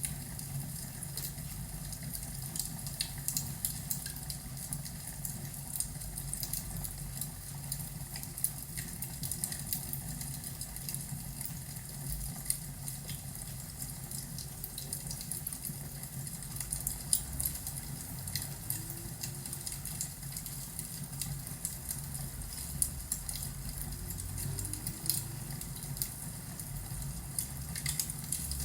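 Crackling fireplace ambience: irregular pops and snaps over a steady low hum.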